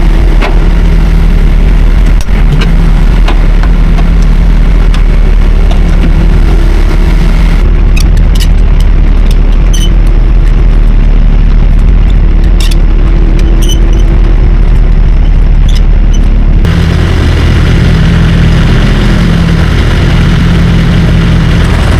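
Semi truck's diesel engine idling close by: a loud, steady low rumble, with a few sharp clicks and knocks in the middle stretch.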